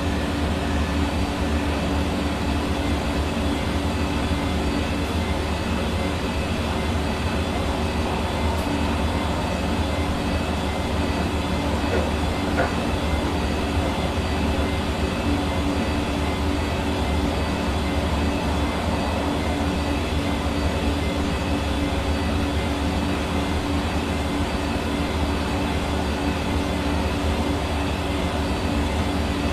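Hair dryer running steadily: an even rush of air over a constant motor hum.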